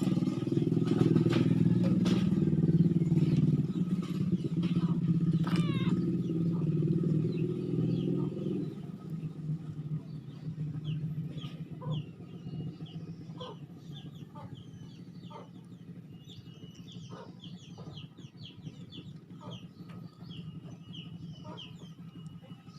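A motor engine hums steadily for about the first eight seconds, then fades away. After that, birds chirp over and over in short, high, rising notes.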